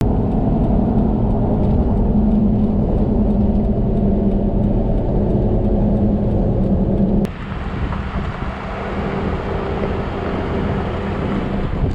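Vehicle engine and road noise while driving, a steady low drone. About seven seconds in it changes abruptly and drops a little in level, then runs on.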